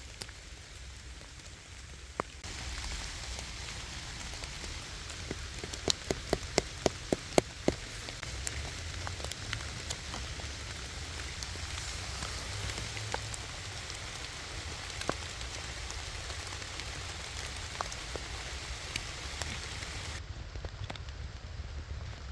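Steady rain falling on the forest, an even patter with a low rumble beneath. There is a quick run of sharp taps or drips between about six and eight seconds in.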